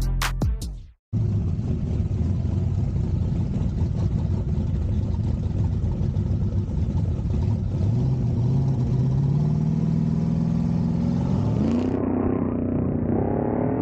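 A vehicle's engine running, then accelerating from about halfway through, its pitch climbing steadily for several seconds.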